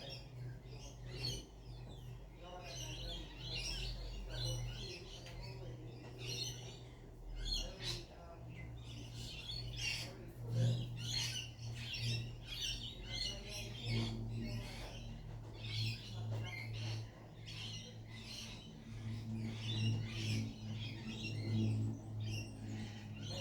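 Many birds chirping and twittering at once in a dense, continuous chorus of short high calls, over a steady low hum.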